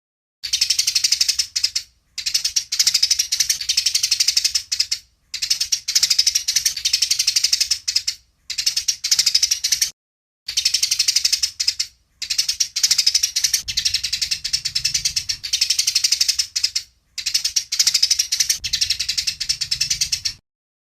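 Eurasian tree sparrows (burung gereja) chattering rapidly and harshly in fighting mode. The calls come in about seven bursts of one to several seconds, each stopping abruptly into complete silence.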